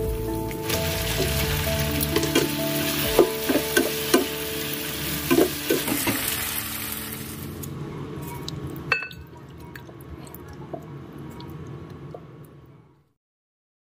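Butter mushroom chicken sizzling in a frying pan while a utensil stirs it, clicking against the pan, over background music. The sizzle dies down after about seven seconds and the sound fades out just before the end.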